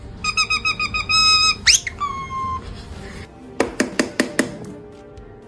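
A parrot whistling: a quick run of about eight short, high beeping notes, then a fast rising whistle and a held note. About three and a half seconds in come five or six sharp clicks.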